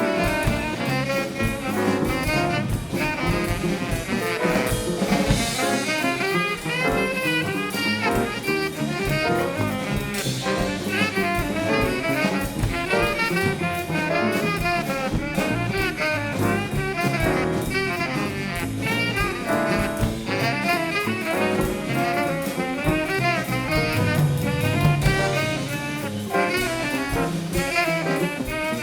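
Live band playing jazz, with saxophone and brass over a drum kit.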